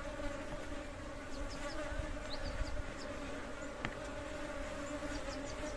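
Honeybees from the colony flying around the hive, a steady buzzing hum.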